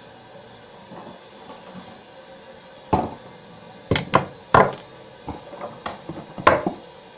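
A string of sharp knocks and clunks of hard objects being handled, starting about three seconds in, the loudest near the middle and near the end.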